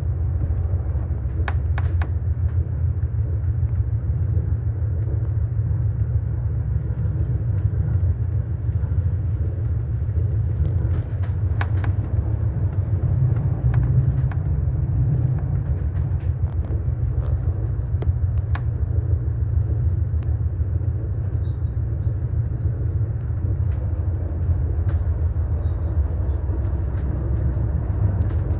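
Steady low rumble of a train carriage running along the track, heard from inside the carriage, with a few faint clicks.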